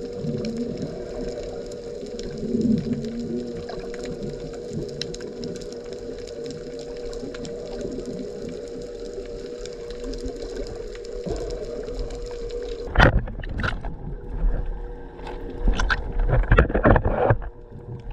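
Steady hum and gurgling water as heard underwater. About 13 seconds in it changes abruptly to loud, irregular splashing and buffeting.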